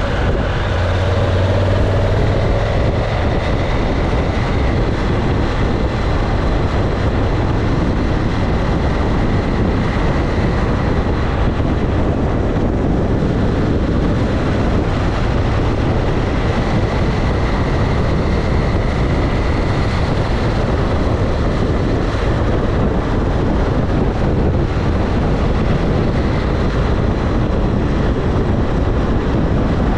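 Motorcycle being ridden, running steadily: a constant loud rush of noise with a faint engine hum underneath.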